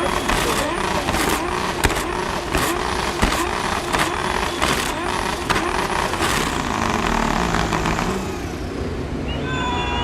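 Drift car engine revved in quick repeated blips, its pitch rising and falling about once every three quarters of a second, with a sharp crack on each blip. The revving stops about eight seconds in.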